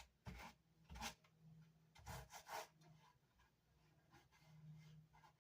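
Short rubbing strokes across the wooden speaker baffle as it is smoothed by hand, checking for bumps: a few scrapes in the first three seconds, then fainter ones.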